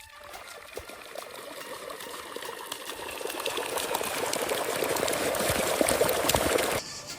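A small stream of water pouring and splashing, growing steadily louder, then cutting off abruptly near the end.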